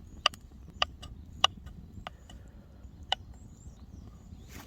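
Wood fire crackling: a handful of sharp pops, irregularly spaced, over a low steady background.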